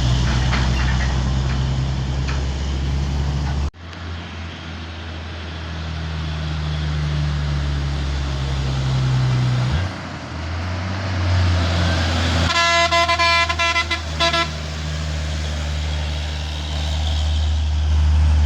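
Truck engines running with a low, steady drone that breaks off abruptly twice. About two-thirds of the way through, a vehicle horn sounds in a rapid string of short toots for about two seconds.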